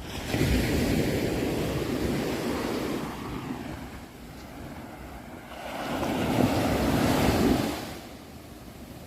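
Ocean waves breaking on the shore: two waves surge in and wash back, each a swell of rushing surf that rises and then dies away, the first right at the start and the second past the middle.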